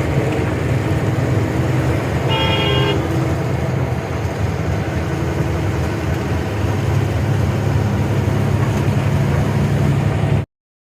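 Truck engine and road noise running steadily, with one short vehicle horn blast about two seconds in. The sound cuts off suddenly near the end.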